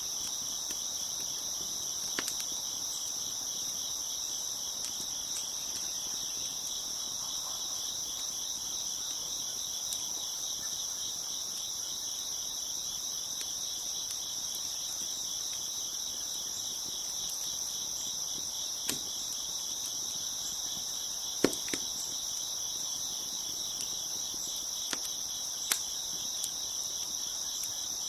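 A steady chorus of crickets chirping, with a few sharp pops from a crackling wood fire scattered through it, the loudest about two-thirds of the way in.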